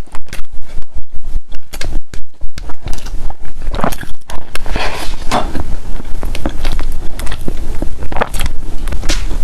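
Close-miked chewing and biting of food, a steady rhythm of about three chews a second at first, then moist, crackly clicks of chewing.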